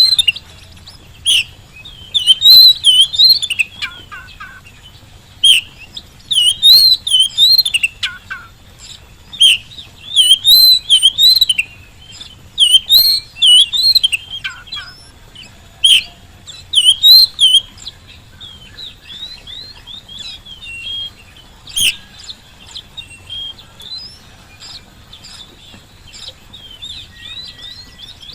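Oriental magpie-robin (kacer) in full song, delivering loud, varied whistled phrases in repeated bursts. After about 18 seconds the song drops to softer, quieter notes.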